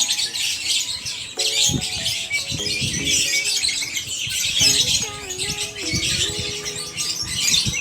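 Many caged canaries and lovebirds chirping and twittering at once, a dense continuous chorus, over music with a wavering melody.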